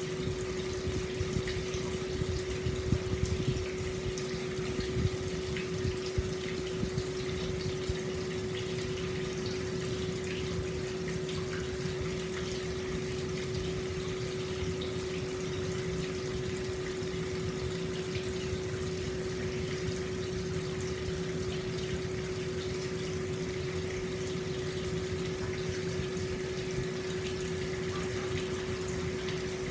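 Hot spring water flowing steadily from the spout into an open-air stone bath, a continuous pouring and splashing with a steady low hum beneath it. A few louder splashes stand out in the first several seconds.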